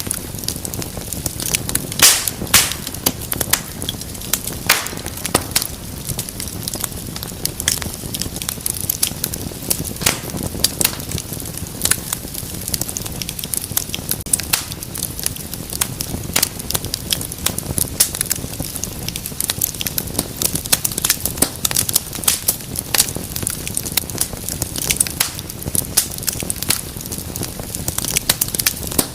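Wood fire burning in a fireplace: a steady low rush of flame with dense, irregular crackles and sharp pops, the loudest pop about two seconds in.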